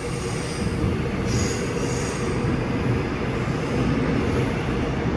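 Seoul Subway Line 6 electric train moving through the station with a steady low rumble, and a brief high-pitched wheel squeal about a second and a half in.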